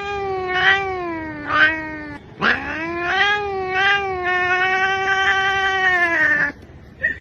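A cat yowling: one long, wavering drawn-out call, broken briefly about two seconds in, then held on a steady pitch for several seconds before it stops.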